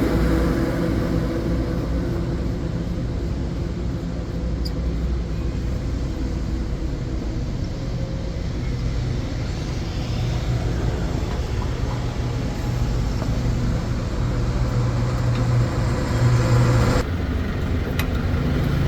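A motor vehicle engine running steadily with a low rumble. The sound changes abruptly about two seconds before the end.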